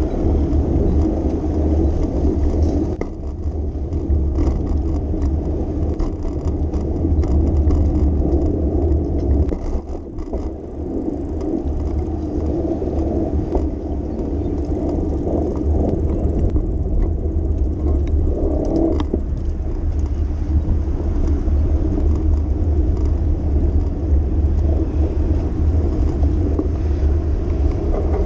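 Continuous rumble and whir of riding a bicycle through city traffic, with passing cars.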